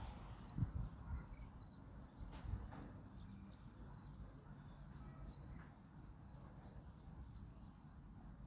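Small birds chirping repeatedly in short high calls over a low wind rumble, with a couple of soft low thumps near the start.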